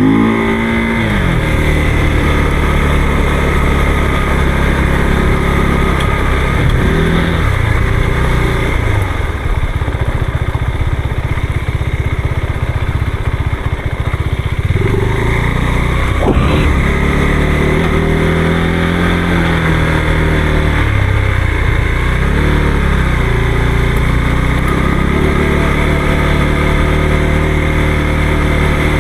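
Motorcycle engine running on the move, its revs rising and falling again and again with the throttle, and settling low for a few seconds around the middle.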